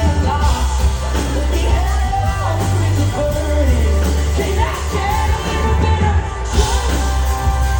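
Live rock band playing loudly with a sung vocal line over heavy, booming bass.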